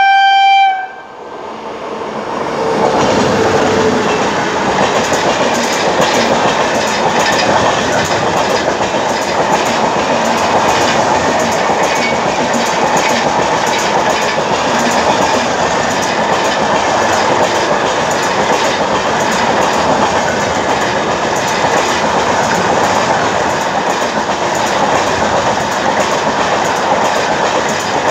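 A train horn cuts off about a second in. Then a train of LHB passenger coaches passes on the next track: steady loud rolling noise with a rapid clickety-clack of wheels over the rail joints.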